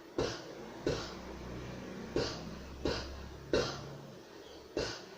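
A woman's voice repeatedly making the voiceless phonics sound /p/: short, breathy puffs of air, about six in a row, each less than a second apart.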